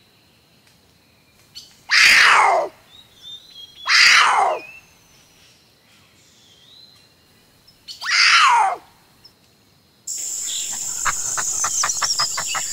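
Cougar calling: three shrill calls, each under a second and falling in pitch, with faint bird chirps between them. About ten seconds in, a steady high hiss and a quick run of clicks take over.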